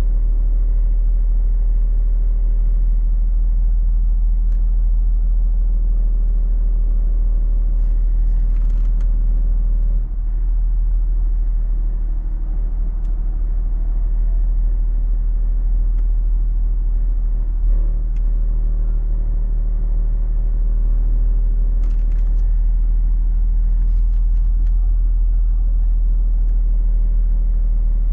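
Car engine idling: a steady low hum with a few level tones above it that shift slightly about ten seconds in and again near eighteen seconds, with a few faint ticks on top.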